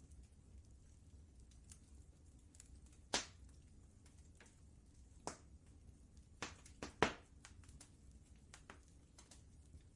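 Wood fire crackling in a fireplace: scattered sharp pops over a low steady rumble, the loudest pops about three seconds in and just after seven seconds.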